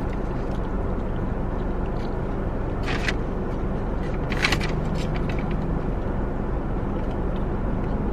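Steady hum of an idling car heard from inside the cabin, with two short rustling noises about three and four and a half seconds in.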